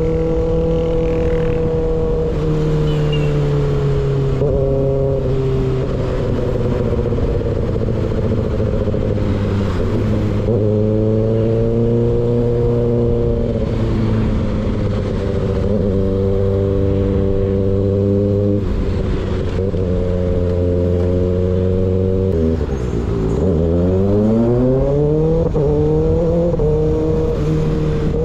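Kawasaki ZX-6R inline-four running through an unbaffled M4 GP19 slip-on exhaust while riding, with wind noise. The engine note holds mostly steady with a few changes in pitch as the throttle moves. About 23 seconds in, the revs fall sharply and then climb back up.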